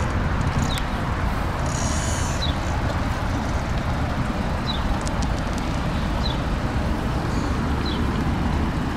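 Steady low outdoor rumble, with a bird chirping briefly every second or two.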